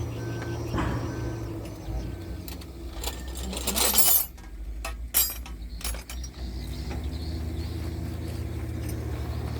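Diesel dump truck engine idling steadily, with a loud burst of hissing about four seconds in and a few metallic clicks and clinks just after.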